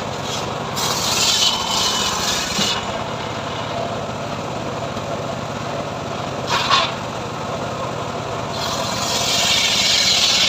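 Engine of a homemade portable sawmill running steadily, with louder hissing spells of the saw cutting through sengon wood about a second in and again from about two-thirds of the way through, and a short burst just past the middle.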